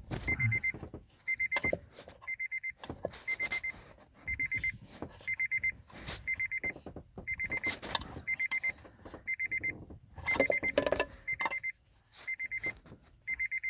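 A Honda Odyssey's warning chime beeps in quick clusters about once a second throughout, while a 10 mm ratchet clicks in irregular runs as it works a bolt on the steering column, busiest about ten seconds in.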